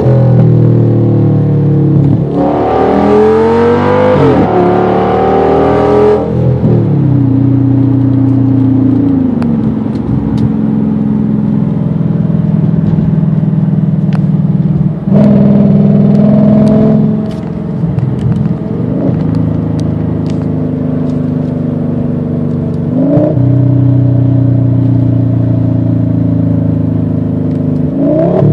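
Audi S8's 5.2-litre V10 with its mufflers removed, heard from inside the cabin. It pulls hard for a few seconds with a rising, stepping pitch, then settles into a steady drone. It rises again under throttle about halfway through and briefly near the end as the gearbox drops to lower gears.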